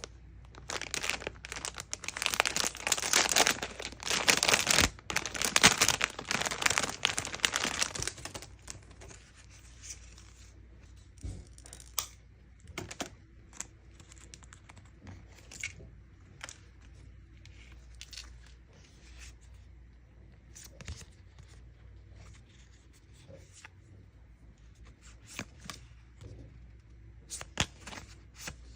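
Packaging being torn open and crinkled by hand, dense and loud for about the first eight seconds, then only occasional light crinkles and taps.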